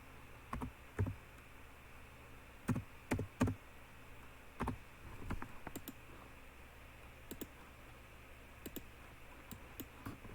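Irregular clicks and taps of a computer keyboard and mouse, several louder ones in the first half and fainter, sharper ones later, over a faint steady low hum.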